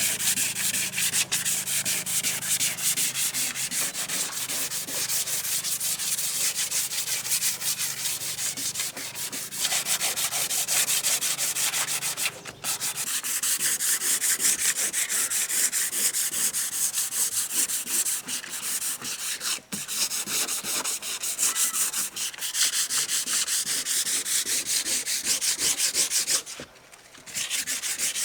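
Hand sanding: sandpaper rubbed back and forth in quick, even strokes, with two short pauses, about halfway through and near the end.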